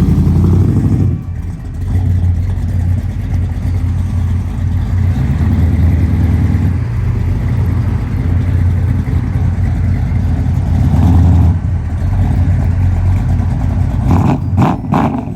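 A car engine running close by with a deep, steady low rumble, loud throughout. A few sharp, short sounds stand out shortly before the end.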